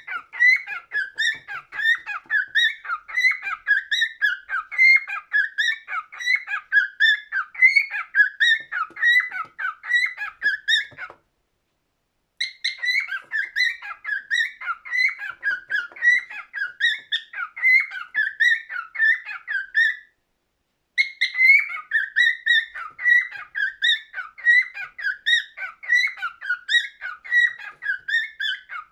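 Cockatiel singing: a fast, continuous warble of chirps and whistled notes. It breaks off abruptly twice for about a second, then carries on.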